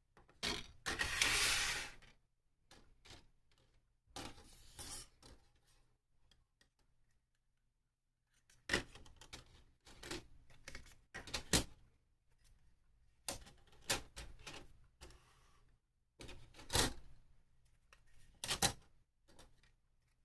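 Irregular clicks, taps and short scraping sounds of small plastic model parts being handled and worked by hand, with a longer scrape about a second in.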